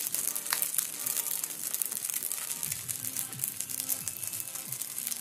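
Rice vermicelli and egg pancake sizzling and crackling in oil in a wok, browned on both sides, with background music.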